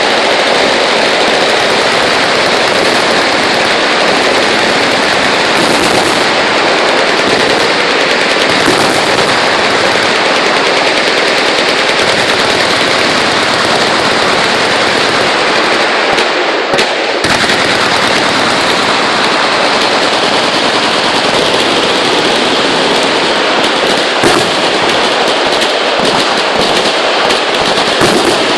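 Many machine guns firing at once in a continuous barrage, the shots merging into one unbroken roar, with a brief lull about two-thirds of the way through.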